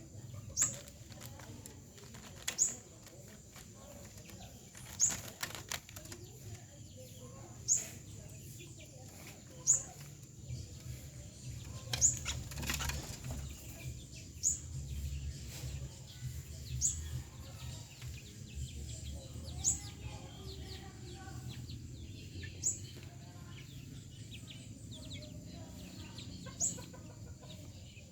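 A bird repeating a short, sharp rising call note every two to three seconds, over a steady high-pitched whine.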